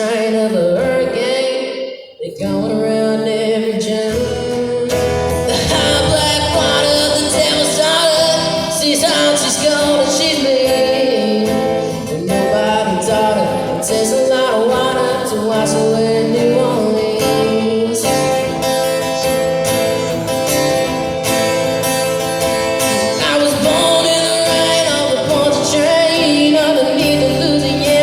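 A song sung over acoustic guitar, with a brief break about two seconds in.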